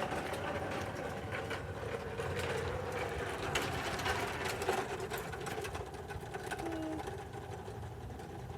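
Scattered light clicks and rattles of dry cereal rings being handled and threaded onto string, over a steady low hum.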